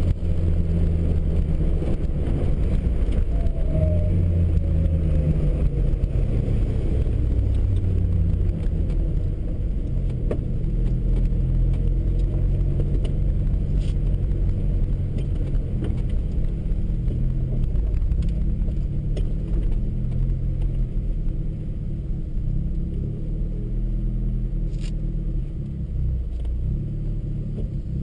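Nissan Bluebird Turbo race car's engine heard from inside the cabin, running at low revs as the car rolls slowly and comes to a stop, with a few light clicks and rattles from the car.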